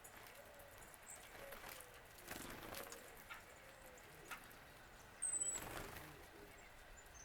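Faint bird calls: soft low notes and a single thin, high falling whistle about five seconds in, with light rustling.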